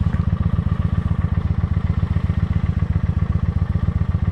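Motorcycle engine idling steadily while it warms up, a fast, even low pulsing.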